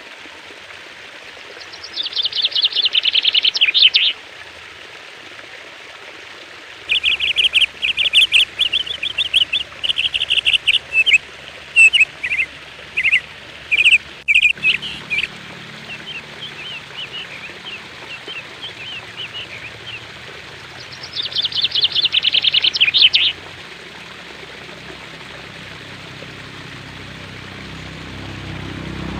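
Songbird singing in spells of rapid, high trills and chirps over a steady faint hiss. One spell comes about two seconds in, a longer run of trills and chirps follows from about seven to fifteen seconds, and another spell comes around twenty-one seconds.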